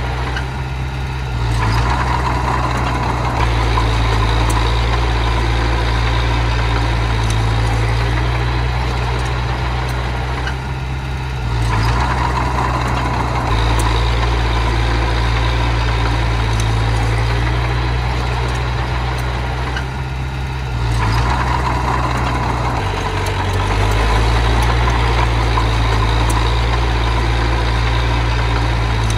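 Small bulldozer's engine running steadily under load. It eases off briefly and then picks up again roughly every ten seconds, in time with its push cycles.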